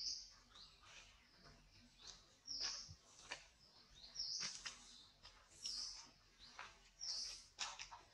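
A bird calling with a short high chirp about every second and a half, over scattered crackling clicks as a long-tailed macaque handles a plastic snack wrapper while eating.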